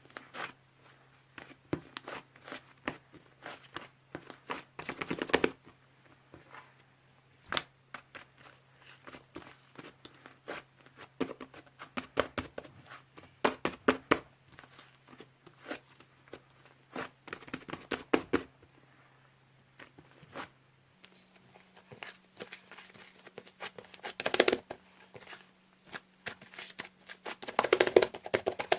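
Slime being squeezed, stretched and pressed by hand, giving bursts of crackling clicks and pops with short pauses between, loudest near the end.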